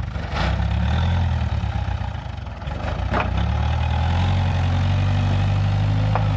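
Case 580G backhoe loader's engine running steadily, easing off briefly around two seconds in, then picking up again a little higher, with a couple of short knocks.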